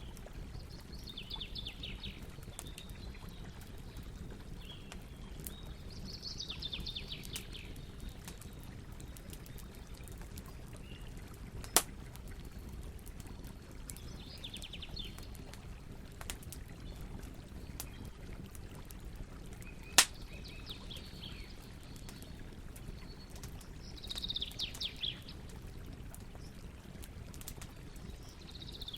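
Campfire burning with steady low noise and scattered crackles, including two loud pops. Birds call in short chattering bursts every few seconds.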